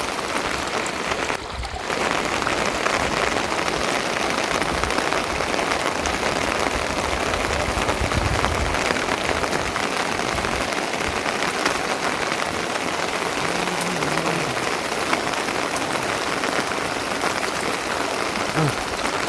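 Steady rain pattering down, a dense hiss of countless drops that eases briefly about a second and a half in.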